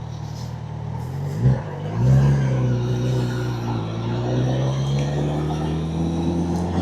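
Motorcycle engine running, with a quick blip of revs about a second and a half in, then pulling away with its pitch rising slowly and steadily.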